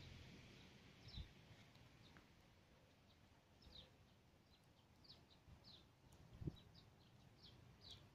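Faint songbird chirps: short, downward-sliding calls repeated about once a second. Two soft low thumps, about a second in and a little past six seconds.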